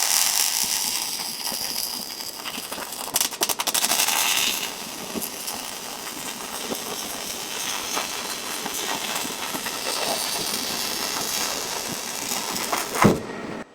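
Robotic arc welding: the welding arc crackles and hisses steadily, with a dense spell of sharp spatter crackles about three to four seconds in. It stops suddenly just before the end, as the arc is cut.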